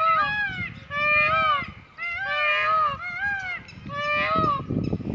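Wild Indian peafowl (peacocks) calling in a series of about five honking calls, each rising and falling in pitch, with several birds overlapping. Wind rumbles on the microphone underneath, gusting harder near the end.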